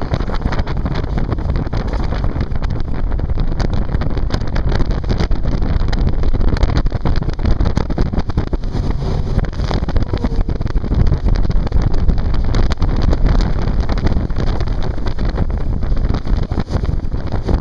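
Wind buffeting the microphone aboard a jet boat under way, with the rush of the boat and water underneath, loud and unbroken.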